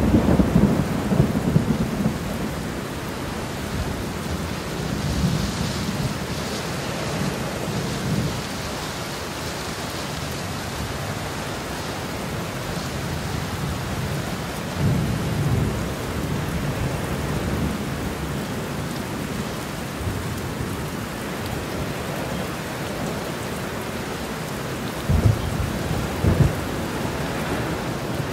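Rain-and-thunder ambience: a steady hiss of rain with low rolls of thunder swelling several times, two short ones close together near the end.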